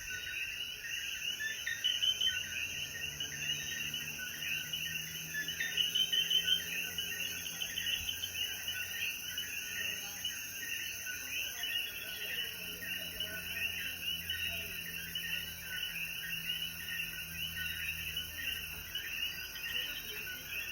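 Night chorus of many Puerto Rican coquí frogs calling after rain, overlapping short chirps repeating steadily. A steady high-pitched tone runs beneath it and stops about halfway through.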